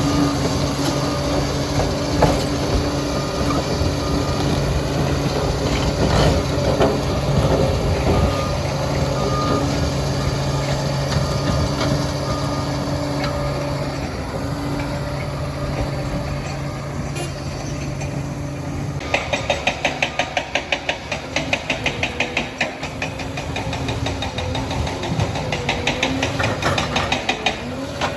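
Liebherr 746 crawler dozer working, its diesel engine running steadily under load with metallic clanking from the steel tracks. About two-thirds of the way through the engine drone drops away and a fast, even clatter of the track links takes over.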